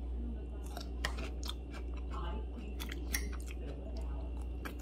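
A person biting and chewing a cooked green bean close to the microphone, with irregular crunchy clicks, over a steady low hum.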